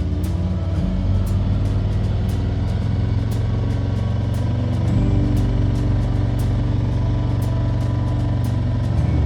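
Motorcycle engine running steadily while riding, under background music with a steady beat.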